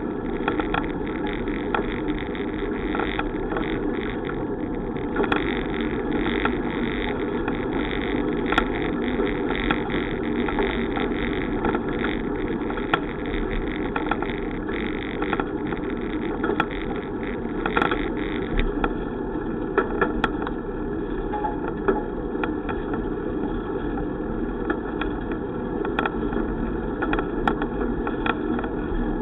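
Steady rumble of a bicycle in motion, tyre and wind noise, with scattered small clicks and rattles.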